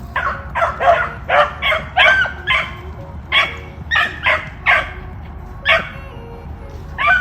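Beagles barking while running a rabbit on its scent trail: a run of short barks, about two a second at first, then more spaced out.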